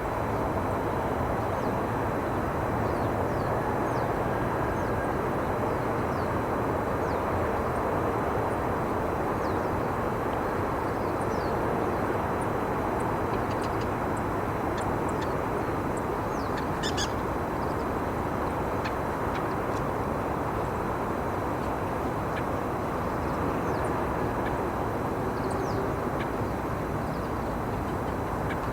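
Steady rumbling background noise with faint, short, high bird chirps scattered through it, and a brighter, quick run of high bird calls about seventeen seconds in.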